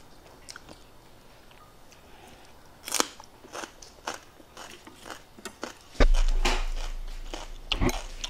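Crisp crunching bites and chewing of a raw green vegetable, close to the microphone, as scattered sharp crunches. About six seconds in comes a sudden dull thump, the loudest sound, with a low rumble fading after it.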